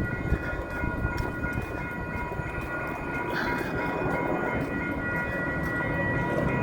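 Metro Transit Blue Line light-rail train at the platform: several steady high electrical tones over a low rumble, growing slightly louder. A short chirp sounds about three and a half seconds in.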